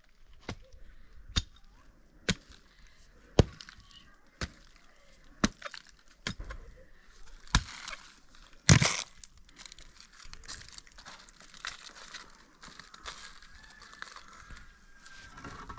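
A series of sharp cracks and knocks about once a second, the loudest about nine seconds in, followed by a steady crackling rustle.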